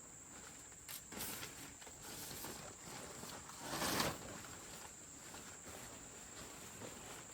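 Forest insects keeping up a steady high drone, with a brief rustling noise about four seconds in.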